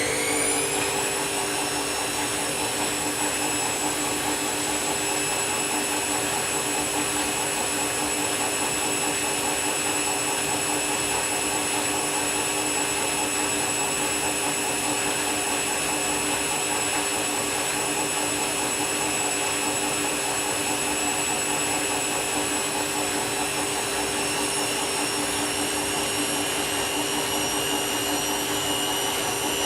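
Candy washing machine on a high-speed spin: the motor's whine climbs to top speed in the first second or so, then holds a steady, high-pitched whine.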